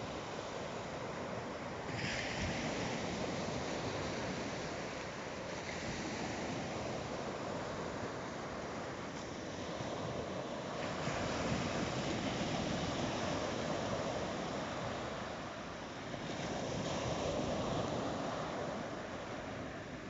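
Sea waves breaking and washing on the shore, swelling and easing every few seconds, with some wind on the microphone.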